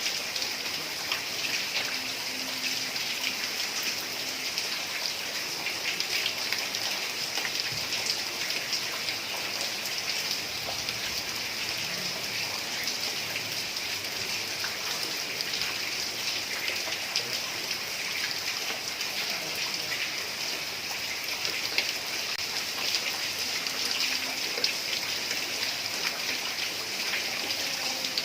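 Heavy rain falling steadily on a tiled roof: an even hiss of rain with many small drop ticks and no let-up.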